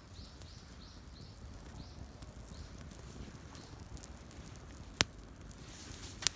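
Wood campfire burning with a faint hiss and two sharp pops, one about five seconds in and one near the end. A faint run of high chirps sounds in the first couple of seconds.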